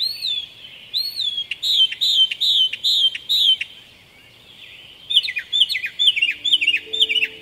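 European starling calling: a run of repeated rising-and-falling chirps about twice a second, a short pause, then a quicker series of sharp, clipped notes.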